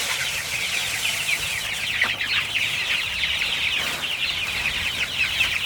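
A large flock of young native chickens peeping continuously, many short high chirps overlapping.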